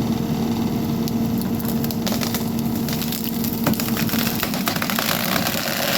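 Skid steer engine running steadily while its hydraulic tree shear closes on a tree trunk; from about two seconds in the wood cracks and splinters as the blades crush through, and the engine note drops under the load about four seconds in.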